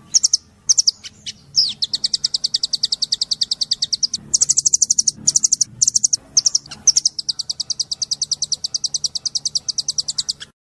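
White-eye (pleci) song in the rapid 'tembakan' style: fast strings of identical high-pitched notes, roughly ten a second. A few short bursts come first, then long runs broken by brief pauses, and the song cuts off abruptly at the end.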